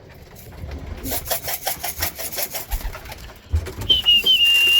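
A quick, even rattling for a couple of seconds, then a loud, steady high whistle near the end: a pigeon fancier's signals calling young pigeons in to the loft.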